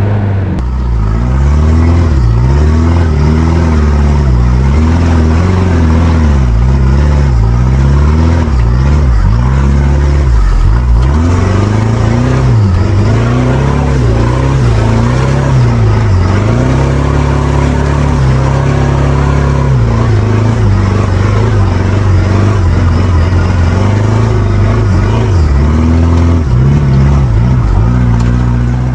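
Mitsubishi Pajero Dakar's engine running hard, revving up and dropping back again and again every second or two, with a steadier stretch of even running in the middle.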